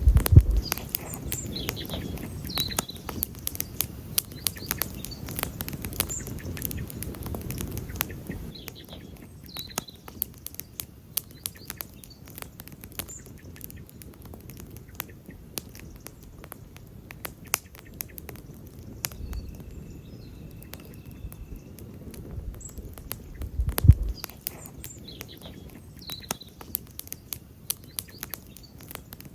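Wood campfire crackling, with many sharp pops and snaps over a low rumble that fades after about eight seconds and swells briefly twice later on. Birds chirp faintly now and then.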